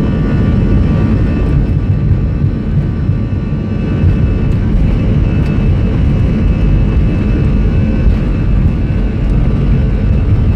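Airliner jet engines and airflow heard from inside the passenger cabin in flight: a steady low rumble with a faint high whine.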